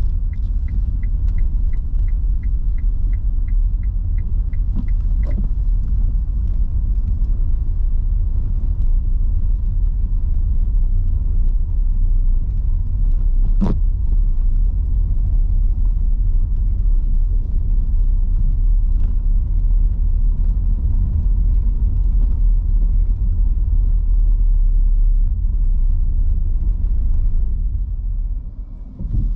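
Low, steady rumble of an electric car driving on rain-soaked city streets in heavy rain: tyre and road noise with no engine note. A regular ticking, about three a second, runs through the first four seconds or so, and there is a single sharp click about 14 seconds in. The rumble drops off near the end as the car slows.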